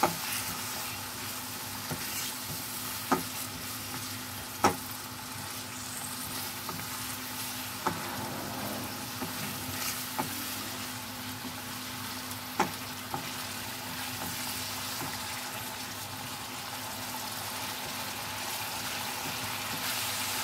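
Masala paste of onion, ginger and tomato sizzling in oil in a non-stick wok while it is stirred with a silicone spatula, with several sharp taps of the spatula against the pan. The paste is being sautéed until well fried.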